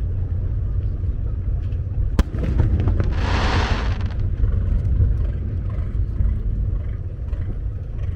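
Fireworks display heard from offshore: a steady low rumble, a single sharp crack about two seconds in, then a crackling hiss lasting about a second.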